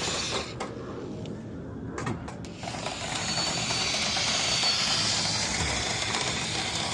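Rotary dryer-vent cleaning brush on rods spinning and scrubbing inside the dryer vent duct, a steady hissing scrub that starts about two and a half seconds in after a few clicks.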